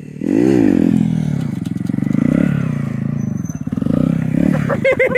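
A 125 cc single-cylinder mini bike engine revving: a sharp rise and fall in pitch about half a second in, then running at varying revs, with a quick series of rev blips near the end.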